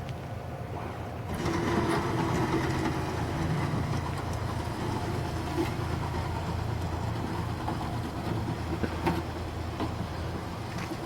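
The electric-hydraulic door and ramp mechanism of a wheelchair-accessible truck conversion starts about a second and a half in. It runs steadily with a motor whine, with a few light clicks.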